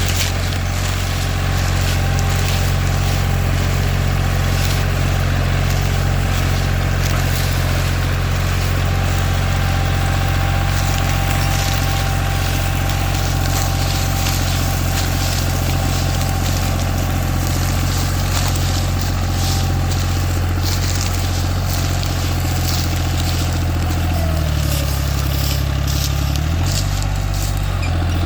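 Tractor diesel engine running steadily under load, hauling a trolley fully loaded with sugarcane. Near the end the engine pitch rises briefly, drops back, then rises again.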